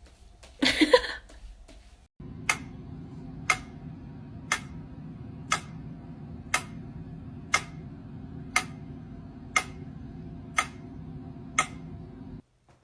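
A brief loud noise about a second in, then regular ticking, one sharp tick a second, over a steady low hum; the ticking and hum cut off suddenly near the end.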